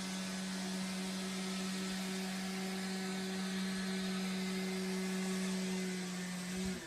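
An electric motor runs steadily, giving a hum over a loud hiss. Near the end it is switched off and the hum falls in pitch as it winds down.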